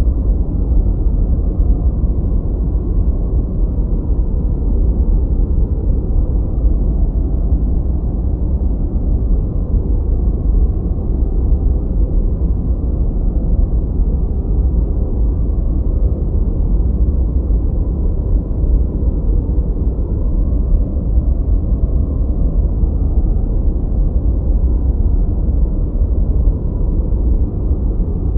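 Continuous noise track, billed as white noise but deep and muffled: a steady, even low rumble with no hiss on top, unchanging in level.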